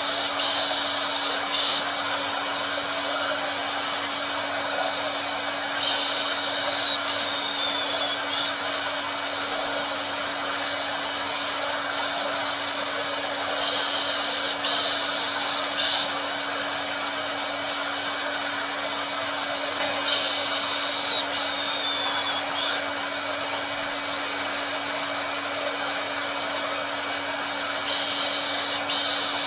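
Hair dryer running steadily: a constant rush of air over a steady low motor hum, with a brighter hiss that swells for about two seconds every six to eight seconds.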